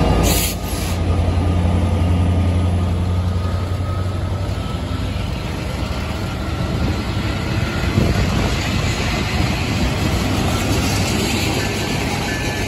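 Diesel freight locomotive's engine drone fading over the first few seconds as it pulls past. Then come the steady rumble and rattle of loaded tank cars rolling by on the rails, with one sharp clunk about eight seconds in.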